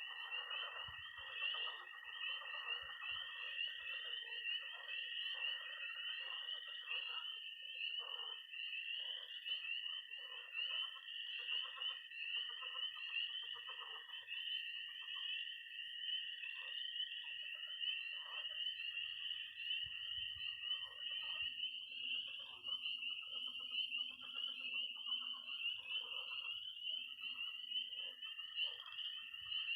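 Night chorus of spring peepers peeping rapidly and continuously, with a long, steady high-pitched trill of toads that breaks off about two-thirds of the way through and starts again near the end. Underneath, pond frogs give shorter, lower croaking calls.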